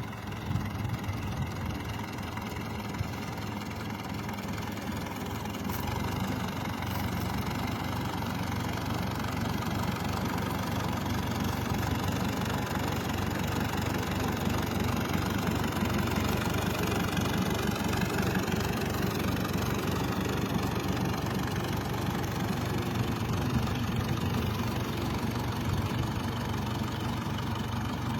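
Grey Ferguson tractor's engine running steadily at a low idle-like speed, getting a little louder several seconds in.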